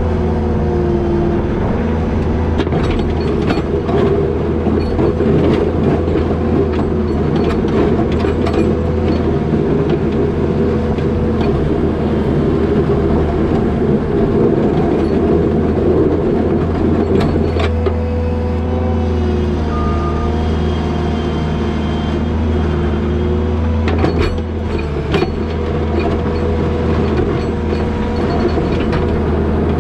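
New Holland L220 skid steer's diesel engine running steadily under load, with a whine from the drive and hydraulics that rises and falls as it works. Scattered sharp knocks and clanks, bunched a few seconds in and again near the end, come from the machine and its box plow.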